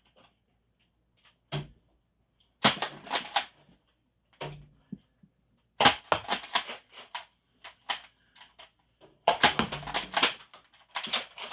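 Bursts of sharp plastic clicking and snapping from toy foam-dart (Nerf) blasters being worked and fired. There are three main bursts, about three, six to seven and nine to eleven seconds in.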